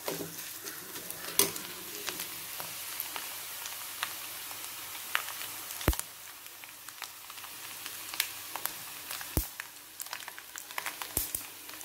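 Sliced onions, ginger, garlic and curry leaves sizzling in hot oil, fried until they have turned reddish-brown, while a steel spoon stirs them. The spoon knocks sharply against the pan a few times.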